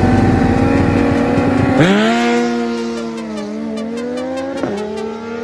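Sportbike engine pulling hard under acceleration. About two seconds in its pitch climbs steeply and then holds, and a quick dip and recovery a little over four seconds in marks an upshift.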